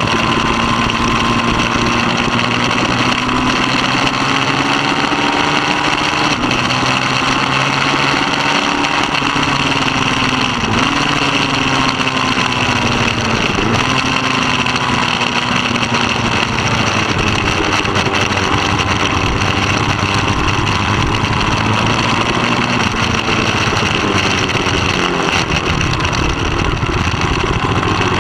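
Middleweight superbike engine running hard at racing speed, its pitch rising and dropping several times through gear changes and corners, over a steady rushing noise.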